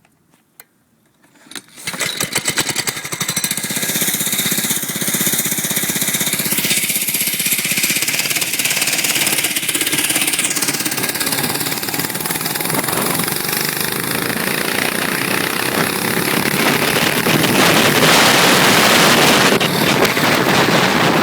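5-horsepower Honda single-cylinder engine on a mini bike starting up about two seconds in, then running loudly with the revs rising and falling; it is loudest near the end.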